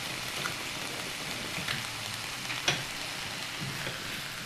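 Elk and vegetable stir fry sizzling steadily in a frying pan, with a few small crackles and one sharper click a little past the middle.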